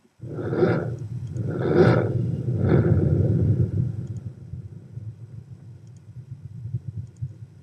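Three loud booming swells about a second apart, then a low rumble that slowly fades.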